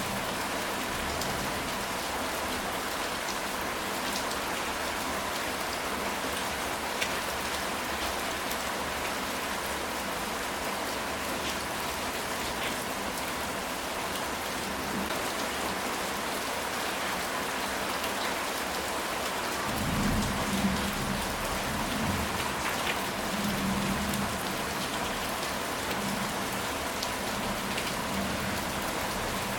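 Steady rain falling on a ceramic tile roof, with single drops ticking through it. About two-thirds of the way in, a low rumble of thunder rolls for several seconds and fades.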